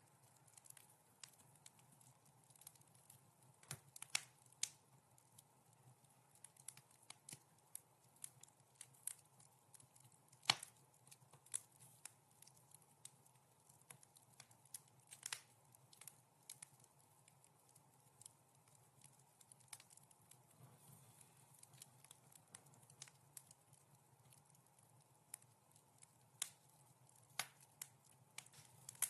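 Wood fire crackling softly: irregular sharp pops and snaps over a faint steady hiss, with one louder pop about ten seconds in.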